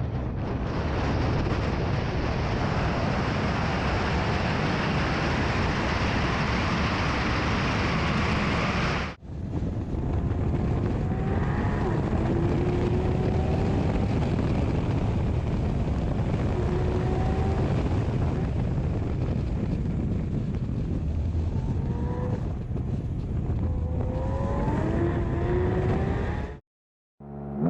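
Porsche 718 Cayman GT4 RS being driven: a steady rush of wind and road noise with a brief break about nine seconds in. From about eleven seconds in, its engine note rises in several short climbs as it accelerates.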